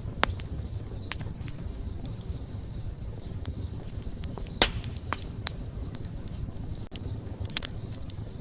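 Wood fire burning, with sharp crackles and pops scattered over a steady low rumble. The loudest pop comes a little past halfway, with a few quicker crackles just after it and again near the end.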